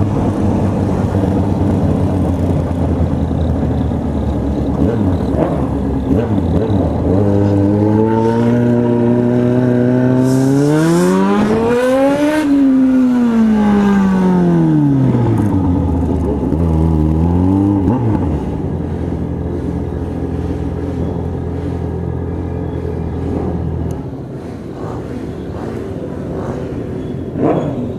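Motorcycle engine idling, then revved up slowly to a high pitch and let back down over several seconds, with one short blip of the throttle after it before it settles back to idle.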